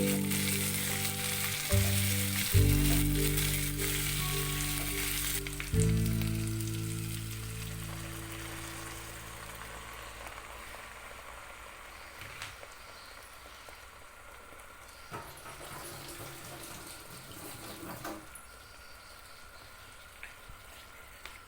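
Food frying in a pan with a steady sizzle, under soft music whose held notes fade away over the first ten seconds. Later the sizzle is quieter, with a few light clicks and taps.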